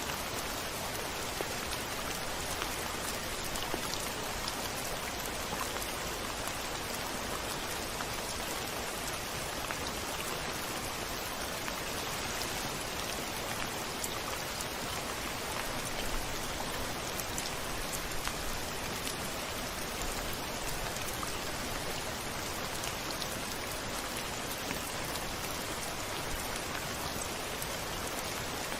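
Steady rain falling on a window, with many small drops ticking against it. No thunder.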